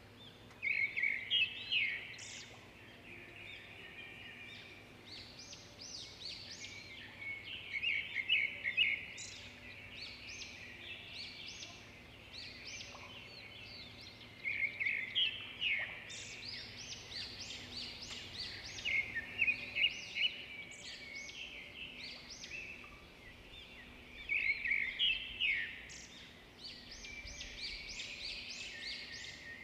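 Songbird singing in several bouts of quick, high chirps and trills, with quieter gaps between them.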